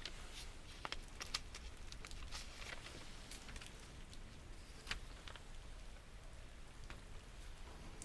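Steady soft rain ambience with scattered light ticks and patters.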